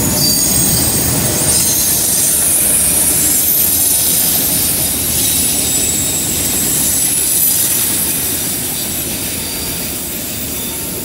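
Freight train's double-stack container cars and autorack cars rolling past on a curve: a steady rumble of steel wheels on rail with high squealing from the wheels. The noise eases over the last few seconds as the end of the train goes by.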